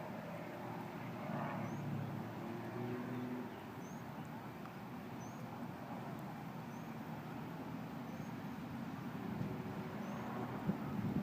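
Drone of a distant propeller airplane's engine for the first few seconds, then fading into open-air background noise. A faint high chirp repeats about every second and a half.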